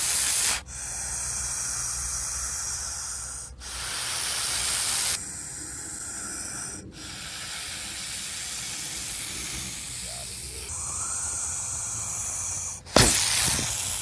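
Gopher snake hissing in long, steady blasts, several in a row separated by short abrupt breaks. A sharp, loud knock near the end.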